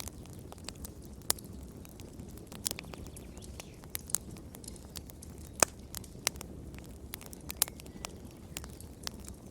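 Wood fire crackling in a fireplace: irregular sharp pops and snaps over a low, steady rumble of flames. One loud pop comes a little past halfway.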